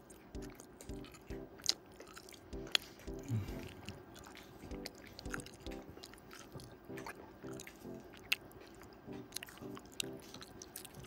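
Close-miked chewing and biting: irregular wet clicks and crunches of someone eating, over soft background music with a steady beat.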